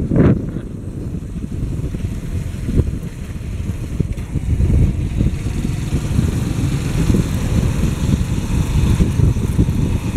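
Motorcycle engine running steadily while riding along a road, heard from the rider's seat.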